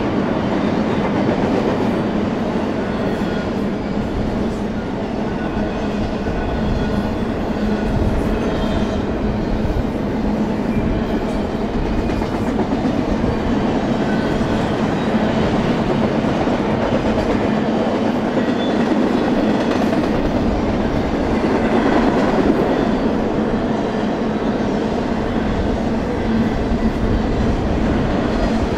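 Double-stack intermodal freight train rolling past: a steady rumble and clatter of steel wheels on the rails as the loaded well cars go by, with faint high ringing tones coming and going.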